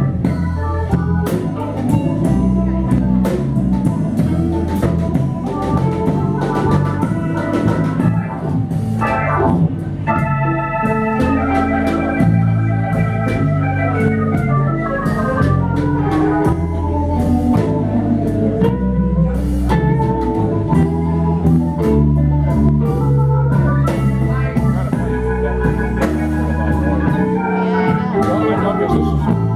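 Live band playing an instrumental passage led by organ, with drums underneath.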